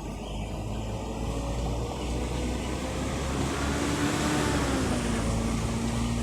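A motor vehicle driving past on the road, getting louder as it approaches; its engine note drops slightly in pitch as it passes, about four to five seconds in.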